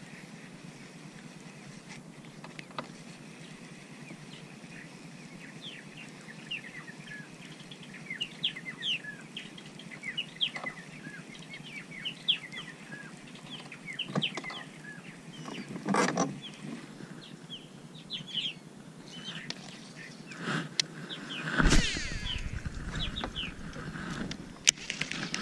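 A bird calling over and over with short, sharp chirps. Near the end comes a loud knock and rustle of handling close to the microphone.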